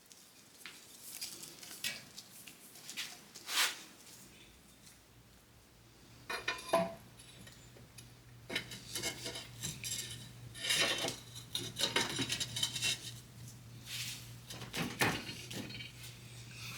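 Steel parts of a VW Beetle front end clinking and knocking irregularly as the greased lower trailing arm is handled and worked onto the beam. A low steady hum starts about four seconds in.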